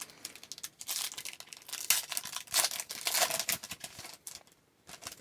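A hockey card pack's wrapper crinkling and tearing as it is opened, with a run of rustles that is loudest in the middle and dies away after about four seconds.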